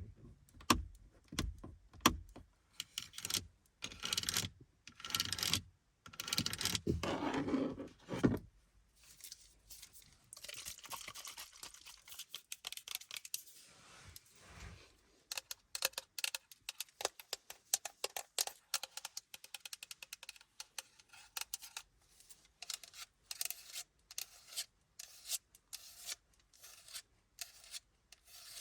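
Tapping and scratching on car interior surfaces: sharp irregular taps and longer scratches at first, a softer stretch of scratching about halfway through, then quick clusters of light tapping.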